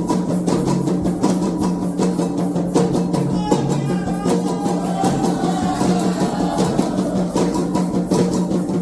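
Candomblé ritual music: atabaque hand drums playing a fast, steady rhythm, with voices singing through the middle.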